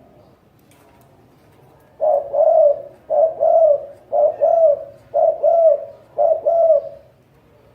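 Spotted dove giving its bowing coo: five repeated low two-part coo phrases, about one a second, starting about two seconds in.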